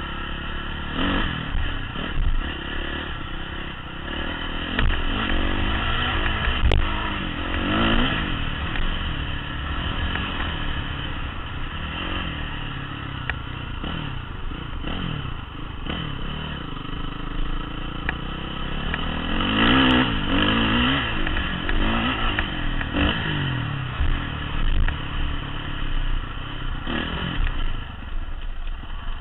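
Honda CRF450 dirt bike's single-cylinder four-stroke engine under way, revving up and down again and again as the rider works the throttle, with its loudest rev about two-thirds of the way through.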